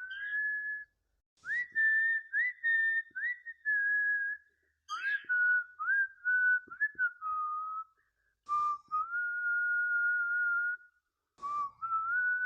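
A whistled melody in clear single notes: phrases of held notes and short upward-slurred notes, separated by brief pauses, each phrase opening with a short breathy noise.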